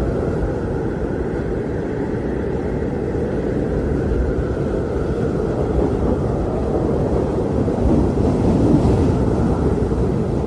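Blizzard wind blowing steadily with a low rumble, swelling a little about eight seconds in.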